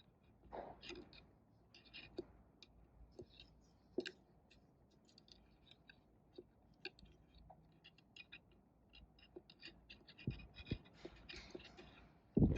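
Faint scattered clicks and light scrapes of metal transmission parts being handled and oiled, with a few louder knocks near the end.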